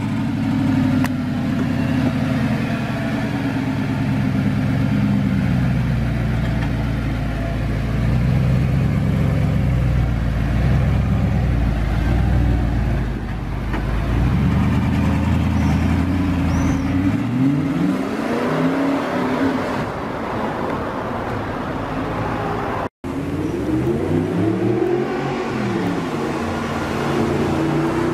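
Audi R8's 4.2-litre FSI V8 idling steadily just after start-up. About 17 seconds in it gives way to the engine revving and the car accelerating, its pitch rising and falling in several sweeps, with a brief dropout about 23 seconds in.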